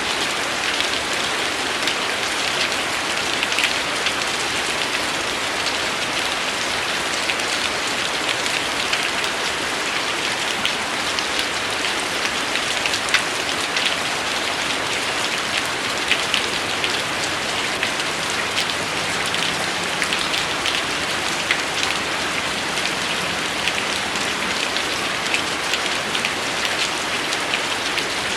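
Steady rain falling, an even hiss with scattered louder drop hits standing out through it.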